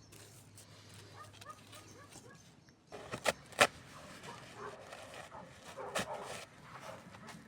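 Campfire wood crackling, with a few sharp pops in the second half, the loudest about three and a half seconds in.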